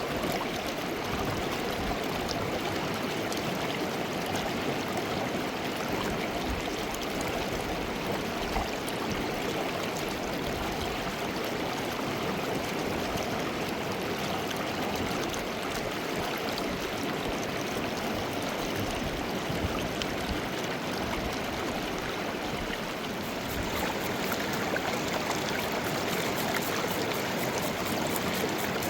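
Steady rush of a mountain river's water running over rocks. It grows a little louder and brighter about 23 seconds in.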